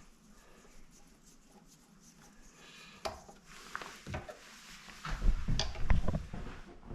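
Tools and metal parts of a KitchenAid stand mixer being handled during disassembly: a few light clicks and clinks, then a louder run of knocks and bumps about five seconds in.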